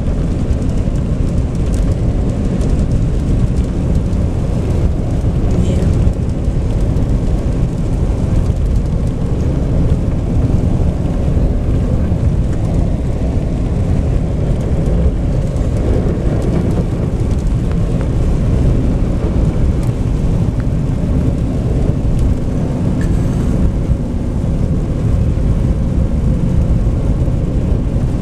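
Car driving on a snowy road, heard from inside: a steady low rumble of tyres and engine.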